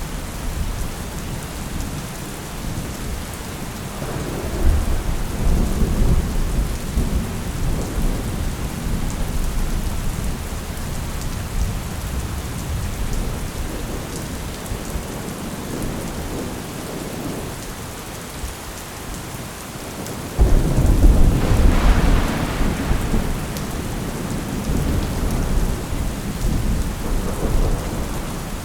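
Thunderstorm: steady rain with rolling thunder. A low rumble swells about four seconds in, and about twenty seconds in a sudden, louder clap of thunder breaks out and rumbles away over several seconds.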